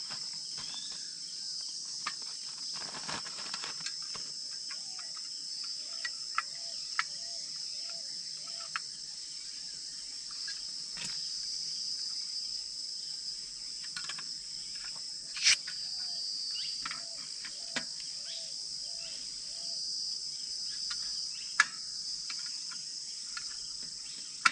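Steady high-pitched chorus of forest insects, crickets or cicadas, at early morning. Scattered sharp clicks sound over it, and twice a short run of about six low, evenly spaced notes.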